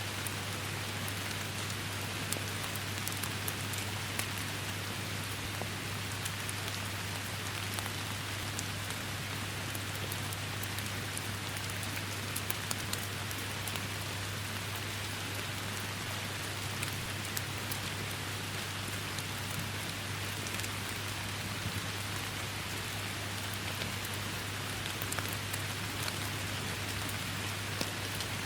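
Steady heavy rain, with many scattered close drop impacts ticking over the even downpour and a constant low drone beneath it.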